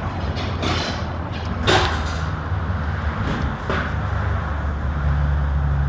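A steady low engine hum, like a vehicle idling, with a few short hissing swishes over it, the loudest about two seconds in.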